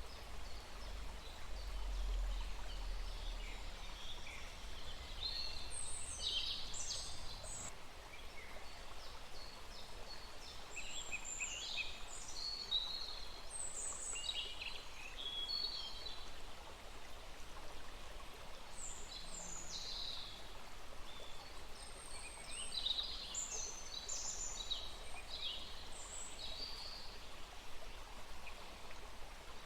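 Several songbirds calling and trilling in short phrases over the steady rush of a small forest stream.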